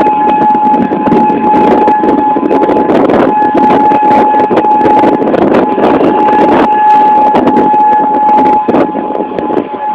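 Heavy wind noise rumbling on a phone microphone. Through it sounds the steady single-pitched wail of an outdoor tornado warning siren, which fades out and returns every few seconds.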